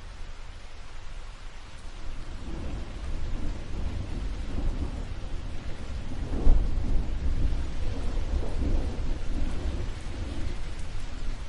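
Thunder rolling over steady rain. A low rumble builds from about two seconds in, peaks sharply a little past the middle, then slowly eases, with the hiss of rain underneath.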